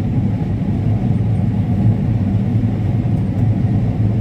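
Combine harvester running steadily while harvesting corn: an even, low drone with no breaks.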